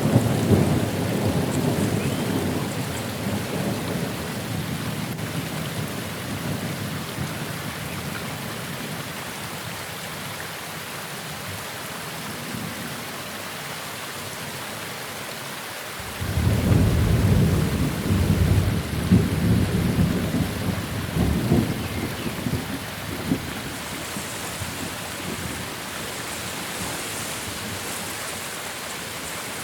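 Steady rain during a thunderstorm. A roll of thunder dies away over the first several seconds, then a new peal breaks suddenly about halfway through and rumbles on for several seconds before fading back under the rain.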